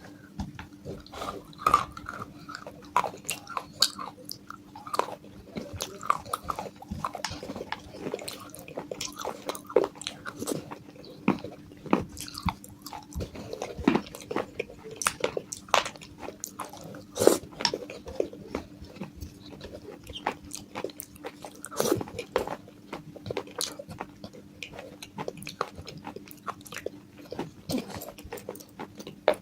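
Close-up biting and chewing of broken baked-clay pot pieces: a dense run of sharp, irregular crunches. A faint steady hum sits underneath.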